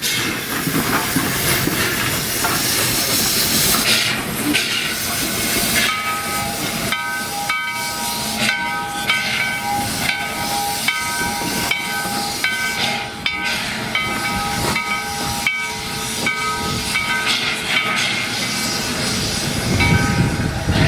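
Steam locomotive letting off a loud hiss of steam, then its bell ringing steadily in repeated strokes from about six seconds in, over the continuing hiss.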